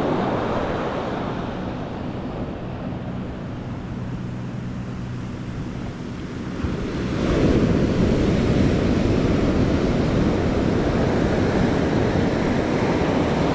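Pacific surf breaking and washing on a sand beach, with wind buffeting the microphone. The surf grows louder about halfway through and stays at that level.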